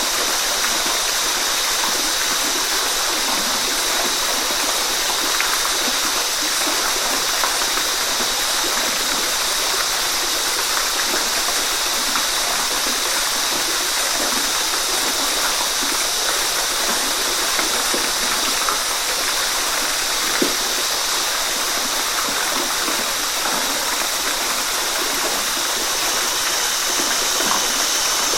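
Waterfall: a steady, unbroken rush of falling water, an even hiss heaviest in the upper range.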